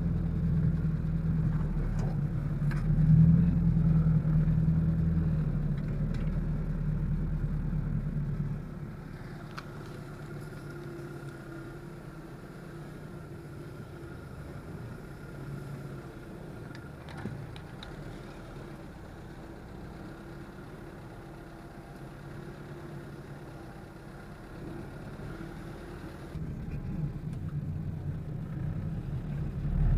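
Car engine running steadily with a low hum. It is louder for the first several seconds, drops quieter for most of the middle, and rises again near the end.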